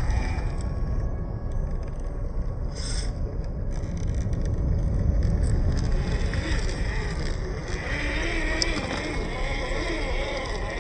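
Small electric motor and gears of a WPL C24 scale RC crawler truck whining as it crawls over rocks, the pitch rising and falling with throttle from about six seconds in, over a heavy low rumble.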